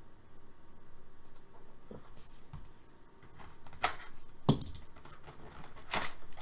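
Trading cards and packs being handled at a table: quiet handling, then a few sharp clicks and snaps about four, four and a half and six seconds in, the middle one loudest.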